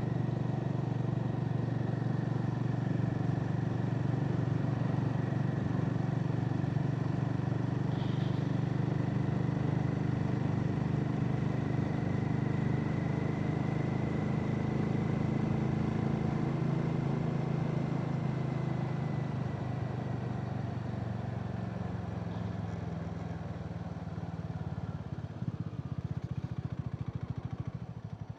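Harley-Davidson X440's single-cylinder engine running steadily while riding along, with some wind noise; the engine eases off a little about two-thirds of the way through.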